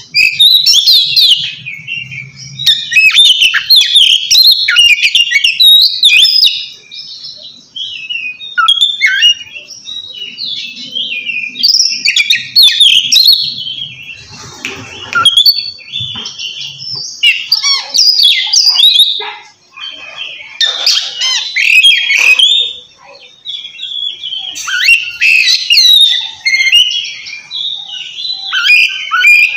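Oriental magpie-robin (kacer) singing loudly in its 'ngeplong' style, the full calling song used to challenge a rival: rapid, varied whistles and chattering notes in bursts, with short pauses between them.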